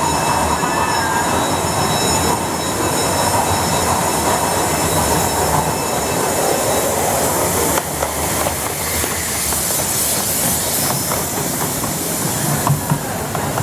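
Miniature railway train's wheels running on the track close by, with a steady rumble. A thin high squeal runs through the first half, and sharp clicks over the rail joints come in the second half.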